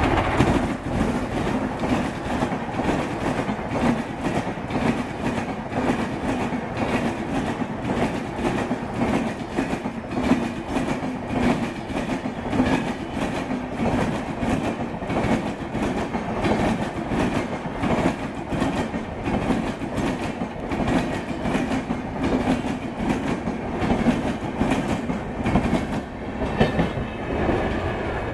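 Express passenger train passing at speed behind an electric locomotive, its wheels clattering rapidly and continuously over the rail joints.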